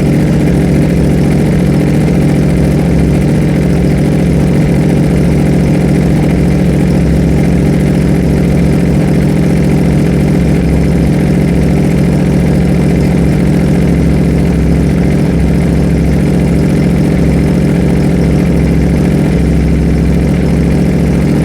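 Ducati V4 Panigale's V4 engine idling steadily through an Arrow aftermarket exhaust, loud and even with no revs.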